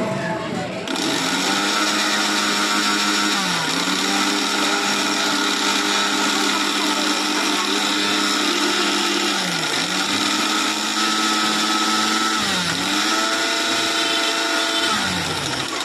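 Electric mixer grinder motor running flat out with a steady whine. The pitch dips briefly three times, about 4, 10 and 13 seconds in, and the motor winds down at the very end.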